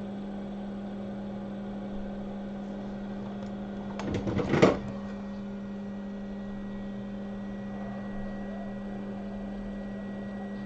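Steady electrical hum of repair-bench equipment, with a short cluster of clicks and rattling about four seconds in.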